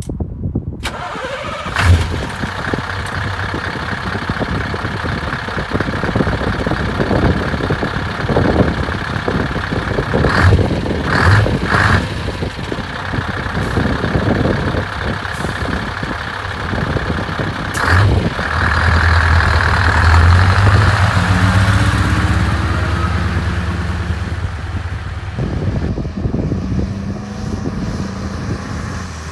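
Scania 164G truck's V8 diesel engine running, with a few sharp knocks and a louder stretch about two-thirds of the way through.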